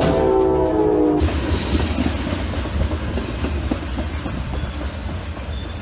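Train horn sounding several tones at once, cutting off about a second in, then the loud rumble and rattle of the train passing close by.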